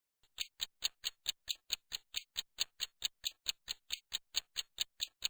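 Ticking clock sound effect: even, sharp ticks at about four to five a second, starting a moment in. It serves as a countdown timer for the learner's speaking pause.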